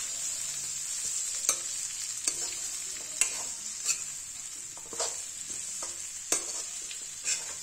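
Amla pieces with jaggery and spices frying in hot mustard oil in a kadhai: a steady sizzle, with a metal ladle scraping against the pan about seven times as the mix is stirred.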